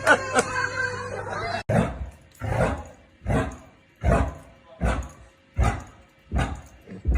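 Laughter that stops abruptly about a second and a half in. Then a dog barking in a steady rhythm, about one bark every three-quarters of a second.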